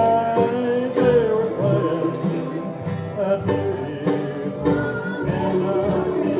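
Live bluegrass band playing an instrumental passage with plucked string instruments and sustained, sliding melody notes over a steady beat.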